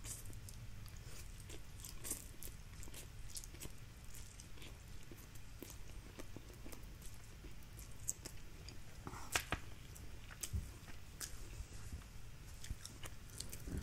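Faint close-up mouth sounds of a person chewing a mouthful of Indomie Mi Goreng instant noodles, with scattered small wet clicks and smacks. A sharper click comes about nine seconds in.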